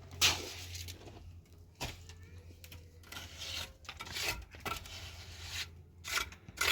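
Irregular short bursts of rustling and scraping, with a knock, as of material being handled.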